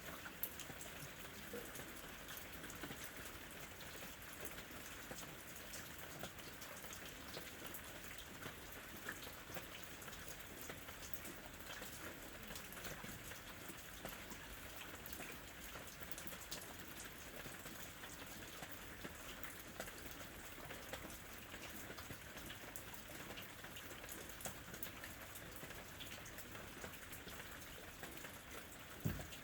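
Steady rain falling, an even hiss dotted with many small drop ticks, with one louder tap near the end.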